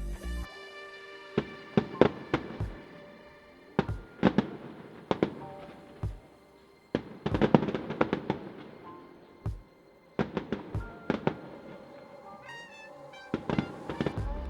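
Fireworks display: clusters of sharp bangs and crackling bursts, with a short lull about six seconds in. Music plays underneath.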